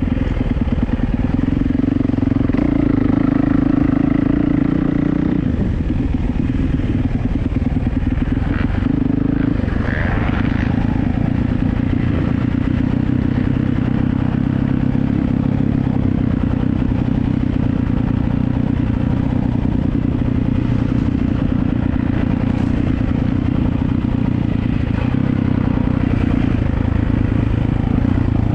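Yamaha YZ450F motocross bike's four-stroke single-cylinder engine running hard, its note rising and falling with the throttle, dropping briefly about five seconds in and again about ten seconds in.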